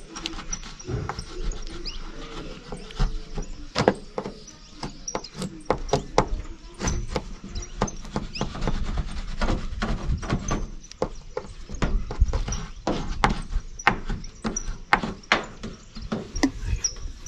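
A rapid, irregular run of sharp knocks and clicks with low thumps underneath: hands-on building work on the roof, with materials being handled and set in place.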